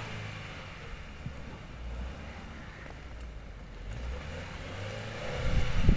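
Ford Focus engine running, its revs swelling a little now and then, as the car is driven in deep snow.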